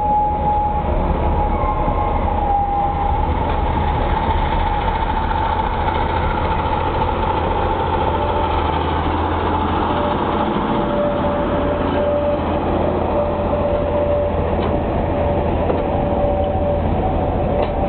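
Park railway train passing close by: the small diesel locomotive's engine running with a steady low hum while the carriages roll over the rails. A thin whine holds throughout and drops slightly in pitch about halfway through.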